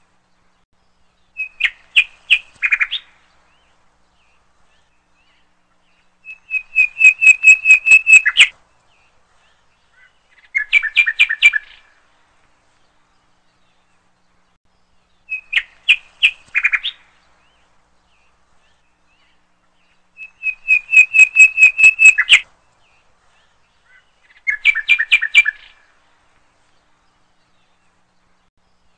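Recorded birdsong laid over as a looping track: short phrases of rapid, high chirps and trills, three phrases then a repeat of the same three about every 14 seconds, with silent gaps between.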